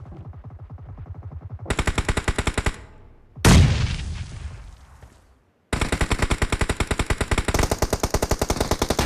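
Video-game automatic gunfire in rapid bursts, with one loud blast about three and a half seconds in that dies away over a couple of seconds. After a brief gap, sustained rapid fire runs on.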